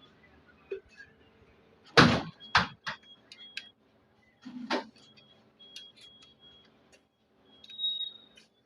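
Cash deposit machine keypad beeping as keys are pressed: a series of short, high electronic beeps with light clicks, one longer beep near the end. A couple of thumps, the loudest about two seconds in.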